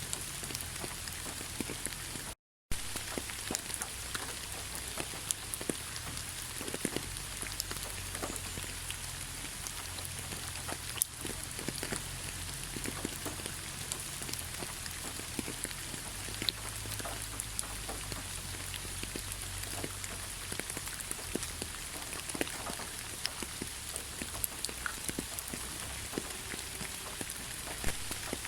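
Heavy rain falling steadily, with many sharp ticks of single drops through the constant hiss. The sound cuts out to silence for a moment about two and a half seconds in.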